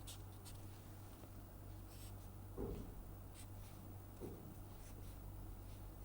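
Faint pen strokes on paper as a graph line is sketched in short dashes, with two soft knocks, over a steady low electrical hum.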